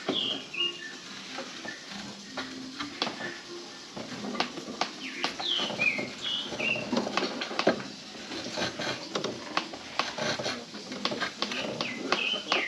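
Many sharp clicks and taps in irregular runs, densest mid-way, with a small bird chirping short falling notes a few times.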